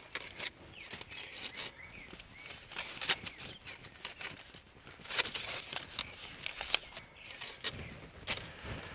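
Irregular light knocks and clicks, with a few sharper taps about three and five seconds in, over a faint steady hiss.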